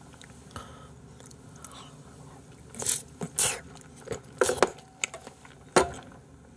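Close-miked chewing of a forkful of raw salmon, with several short wet smacks and clicks of the mouth from about three seconds in.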